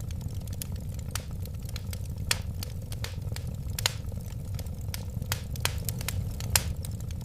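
Wood fire burning with irregular sharp crackles and pops over a steady low rumble of the flames, a few pops louder than the rest.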